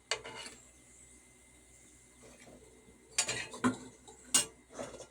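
Metal kitchen utensils clinking against a pot and a strainer while fried dumplings are moved to drain. One sharp clink comes just after the start, then four more about three to five seconds in.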